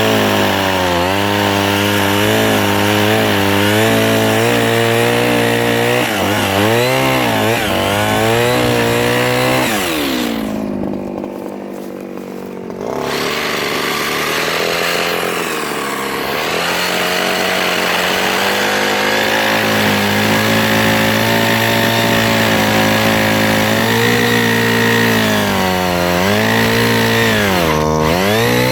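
Mini chainsaw cutting softwood, its pitch dipping and recovering again and again as the chain bites under load. About ten seconds in it slows and quietens for a couple of seconds, then speeds back up and cuts on.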